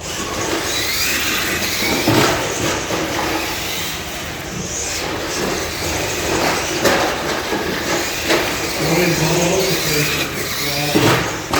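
Electric RC monster trucks racing: motors whining up and down in pitch over the noise of tyres on the track, with a few sharp knocks as the trucks land or hit the course.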